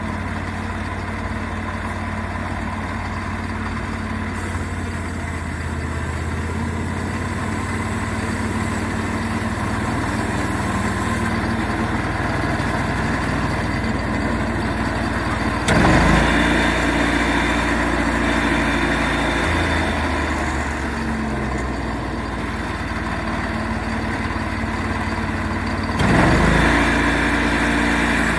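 Portable sawmill engine running steadily, with two sudden jumps to a louder, harsher sound, one a little past halfway and one near the end.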